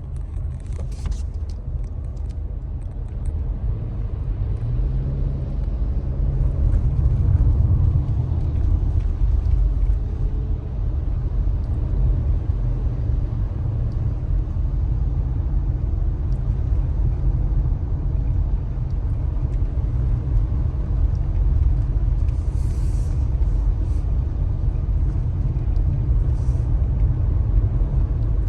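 Steady low rumble of a car on the road, with a faint hiss over it.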